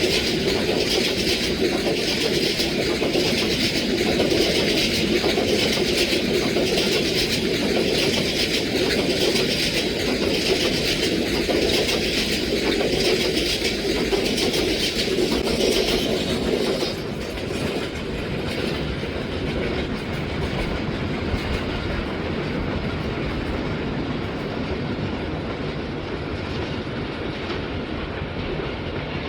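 PT Inka passenger coach running over old, uneven track: a steady rumble with wheels clattering over the rail joints. About halfway through, the hiss in the noise fades and the running sound becomes quieter and duller.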